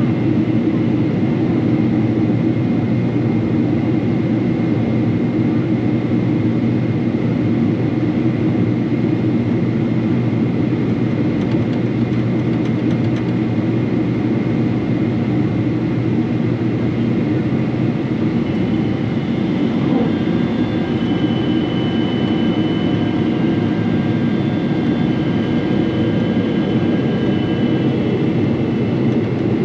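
Steady cabin noise inside a Boeing 777-300 airliner: a constant rumble and hum from the engines and air systems, with faint high whining tones coming in about two-thirds of the way through.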